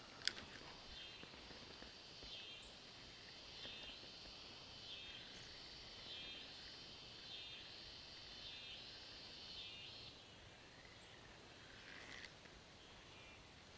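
Faint outdoor ambience with a high-pitched call from a small animal, repeating in a steady rhythm about once every second and a bit. It stops about ten seconds in, and a single sharp click comes just after the start.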